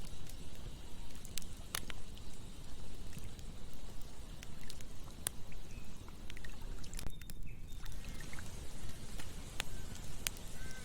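Campfire burning, with a handful of sharp crackles and pops over a steady low rushing.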